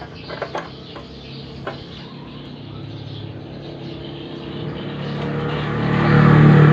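A few light clicks, then an engine's steady hum that grows louder over several seconds and is loudest near the end.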